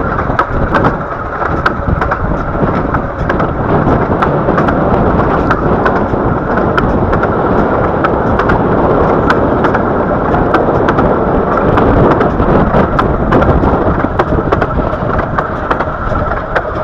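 Narrow-gauge steam train running along the track, heard from a coach: a steady rumble of the moving train with frequent sharp clicks and knocks of the wheels over the rails.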